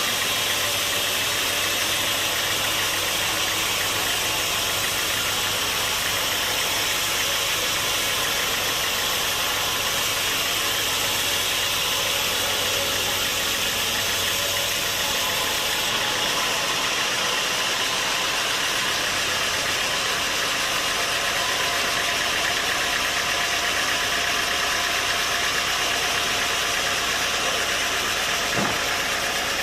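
Sawmill machinery running steadily, an even engine-like drone with a strong hiss. A single short knock comes near the end.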